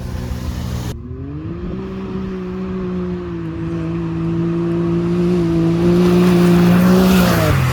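UTV engine revving up about a second in and holding a steady high pitch at full throttle, growing louder, then dropping in pitch near the end as the throttle comes off.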